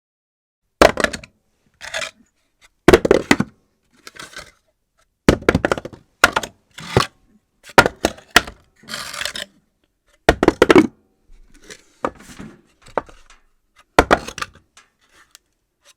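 Various objects dropped onto a floor one after another at random, uneven intervals, each landing with a sharp knock, some clattering or bouncing briefly afterwards; about a dozen drops, starting under a second in.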